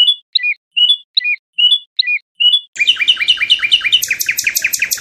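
A songbird singing loudly. It repeats a two-part whistled note about two and a half times a second, then breaks into a fast run of down-slurred notes, about seven a second, which jumps to a higher, brighter pitch about a second before the end.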